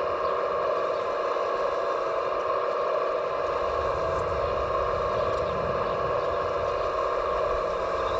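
Steady, even whine of radio-controlled scale construction machines' electric motors and hydraulics running, with a low rumble that grows about halfway through.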